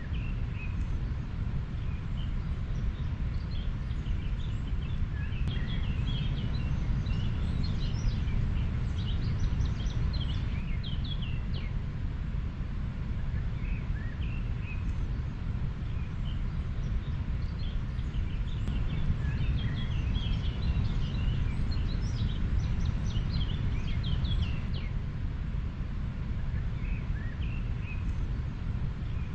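Steady low rushing of a flowing river, with birds chirping over it in many short, high calls, busiest in two spells, one in the first third and one about two-thirds through.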